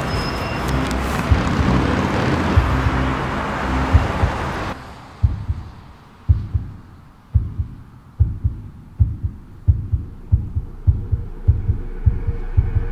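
A dense, noisy wash cuts off suddenly about five seconds in. It gives way to a heartbeat sound effect: deep single thumps, at first about a second apart, that speed up steadily, with a faint steady hum joining near the end.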